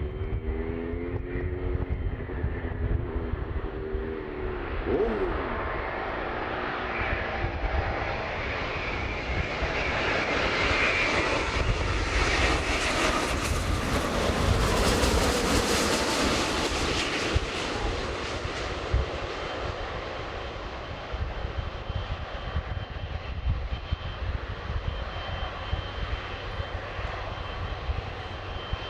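Jet airliner passing on its landing approach, its engine noise swelling to a loud peak about halfway through and then fading away. In the first few seconds, engine tones drop in pitch.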